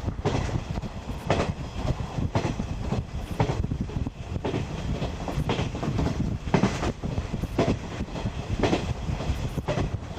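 JNR 50-series passenger coach running along the track: a steady rumble with repeated clickety-clack of the wheels over rail joints.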